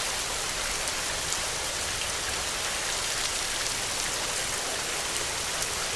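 Steady rain falling: a dense, even hiss with scattered sharp drop ticks.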